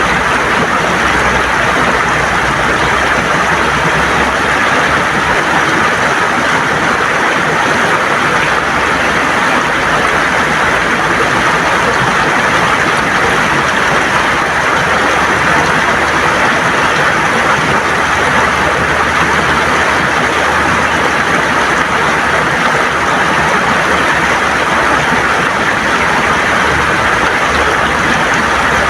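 River water gurgling and rushing over stones, a steady, even flow with no breaks.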